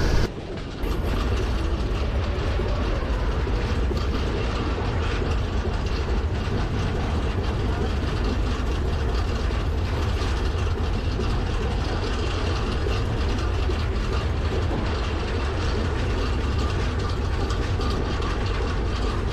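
Passenger train running at speed over a long railway bridge: a steady low rumble of wheels on rails with a dense, fast rattle.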